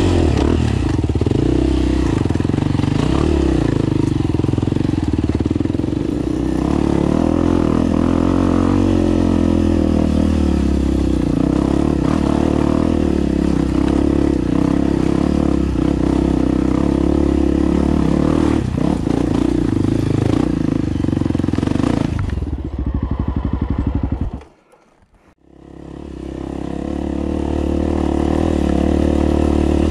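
Off-road dirt bike engine running under load on a rocky trail. Near the end the engine note drops to slow, separate pulses and cuts out for about a second, then the sound builds back up.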